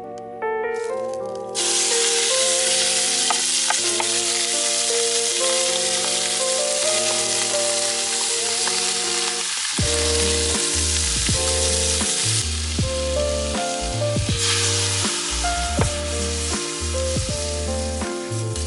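Food sizzling as it fries in a pan, a steady hiss that starts about a second and a half in, under background music that changes to a track with a heavier beat about ten seconds in.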